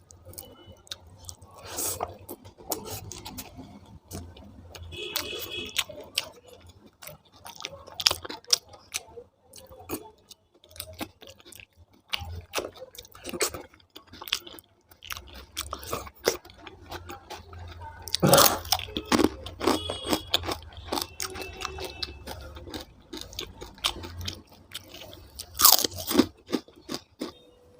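A person chewing and crunching food, with irregular wet clicks and crunchy bites, a few louder bites near the middle and near the end.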